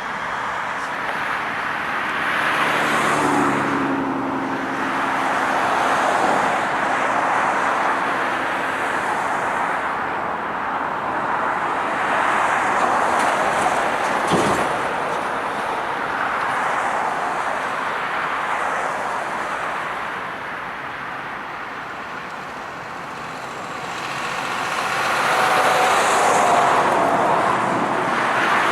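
Vehicles going by one after another, a rushing sound that swells and fades every few seconds, with a brief engine hum about three seconds in and a short sharp sound about halfway through.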